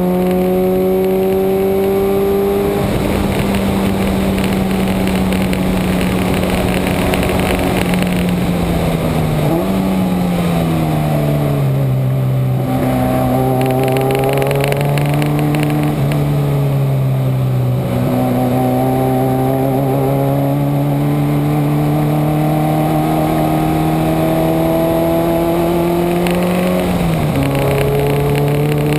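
Subaru boxer engine driven hard on track. It holds steady high revs at first, then about ten seconds in gives a quick rev blip and falls in pitch as the car slows. After several seconds low it climbs steadily in revs and drops sharply near the end at an upshift, with wind and road noise throughout.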